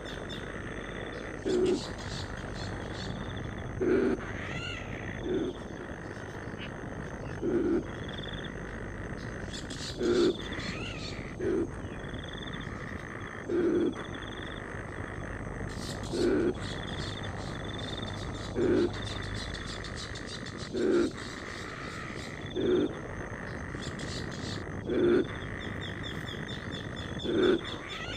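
A frog croaking: short, low croaks repeated every couple of seconds, sometimes two close together. A bird gives a couple of brief chirps, over a steady high-pitched background drone.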